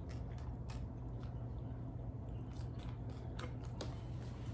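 Close-miked chewing of a crunchy taco: irregular crisp crunches and mouth clicks over a steady low hum.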